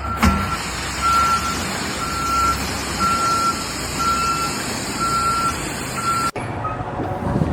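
Vehicle reversing alarm beeping about once a second over a low engine rumble, cut off about six seconds in.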